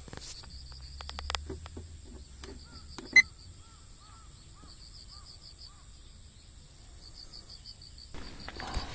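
Crickets chirping in a steady pulsing trill, with fainter repeated chirps in the middle. Scattered small clicks and knocks fall in the first few seconds, and one sharp click comes about three seconds in.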